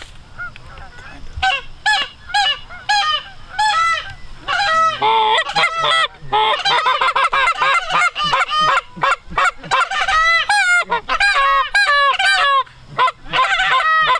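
Canada geese honking, at first in spaced single honks, then from about halfway a dense overlapping chorus of many honks from a flock coming in close.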